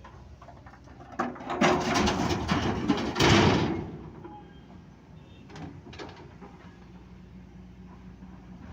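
A load of stones crashing and rattling into the steel body of an Ashok Leyland tipper truck. It lasts about three seconds from about a second in, with a couple of fainter knocks after it, over a steady low engine hum.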